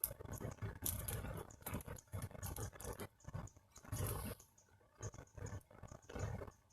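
Wood fire burning in a small stove built from stacked trivets: irregular crackles and pops over uneven surges of low rumble.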